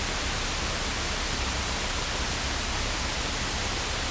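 Steady hiss of a cockpit radio and intercom audio feed between transmissions, with a faint low rumble underneath.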